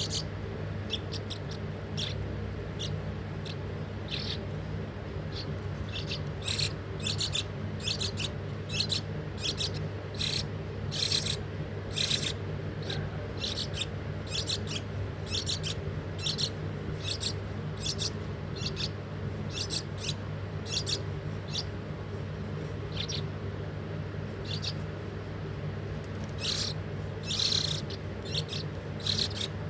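A young bird chirping again and again in short, high calls, thicker in the first half and near the end, over a steady low hum.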